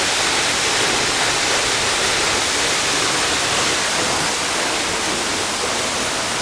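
Waterfall in heavy flow: a loud, steady rush of falling water, close up.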